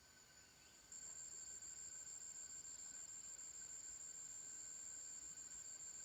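An insect's steady high-pitched trill, which gets suddenly louder about a second in and then holds.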